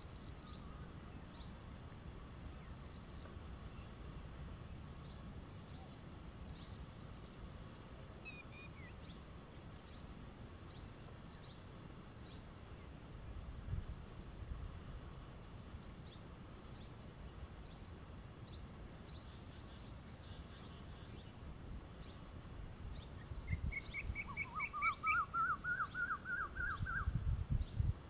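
Outdoor ambience with a steady high hiss and low rumble; a bird gives one short chirp about a third of the way in, and near the end a rapid run of short rising chirps lasting a few seconds.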